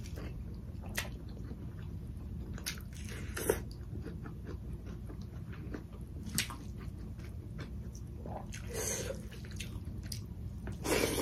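Close-miked chewing of a mouthful of rice with curry, with scattered short wet smacks and clicks of the mouth, a louder one near the end.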